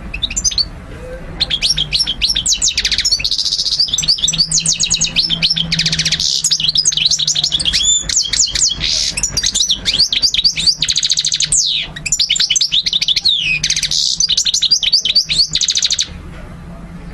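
European goldfinch singing a long, continuous song of rapid twittering trills and fast sliding notes. It breaks off briefly about a second in and again near twelve seconds, and stops about a second before the end.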